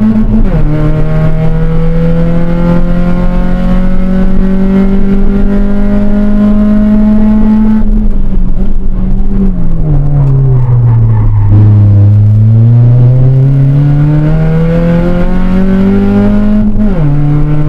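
Honda Civic's 1.5-litre D15 four-cylinder engine heard from inside the cabin, under hard acceleration on track. The exhaust sounds rough and loud from a blown flex pipe. There is an upshift about half a second in, then a long climb in revs, a lift-off with the revs falling, renewed acceleration, and another upshift near the end.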